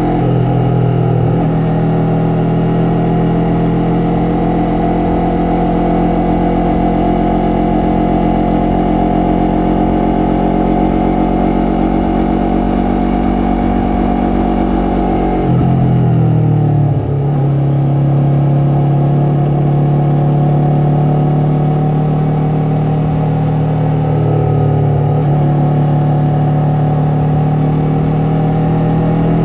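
Yamaha MT-03 parallel-twin engine and exhaust under way, running steadily, with brief drops in engine pitch at gear changes shortly after the start and again about halfway through.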